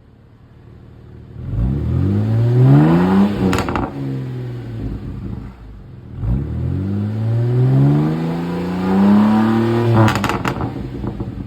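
BMW E92's N52B25 2.5-litre inline-six petrol engine, its revs rising twice, each climb lasting a few seconds and ending in a quick drop.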